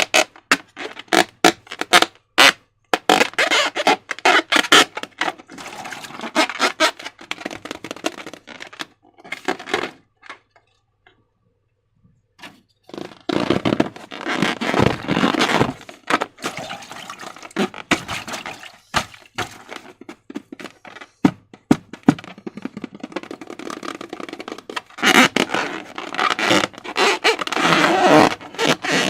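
Slime being handled and squished by hand: a run of sticky clicks, crackles and squelches, with a pause of near silence about ten seconds in.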